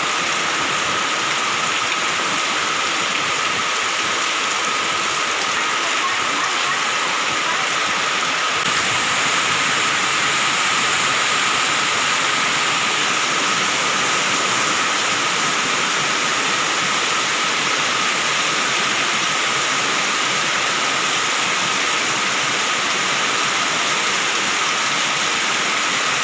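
Heavy tropical downpour: a loud, steady, unbroken hiss of pouring rain, with a faint steady high tone underneath.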